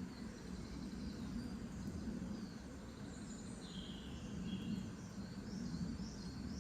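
Nature soundscape: birds chirping in short high calls over a steady low background noise, the calls clustering around the middle and again near the end.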